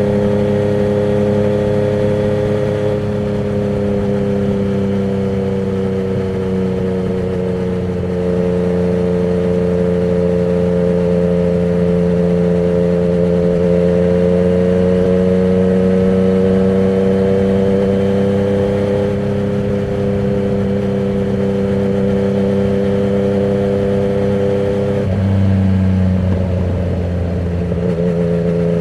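Yamaha MT-09's three-cylinder engine running at a steady cruise through a Termignoni exhaust with its dB killer removed, the note sagging and rising gently. About 25 seconds in the note breaks abruptly and settles a little lower.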